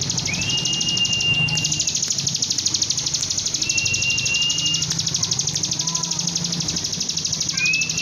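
Caged bar-winged prinia (ciblek) singing a fast, steady buzzing trill. Over it come long level whistles: one near the start, one in the middle and one beginning near the end. A low hum runs underneath.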